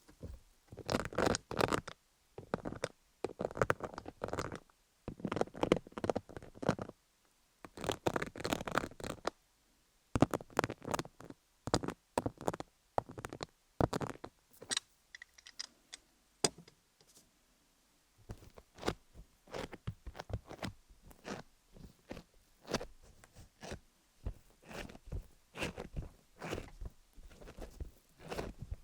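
A microneedle (MTS) roller being rolled over a dummy-head microphone studded with cubic zirconia gems, close to the mic: crackly, crunchy scraping strokes. The strokes are long in the first part, then shorter and broken up by sharp clicks.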